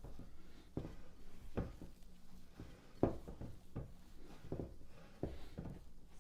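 A run of irregular knocks and taps, like things being handled and set down during cooking, with the loudest about three seconds in.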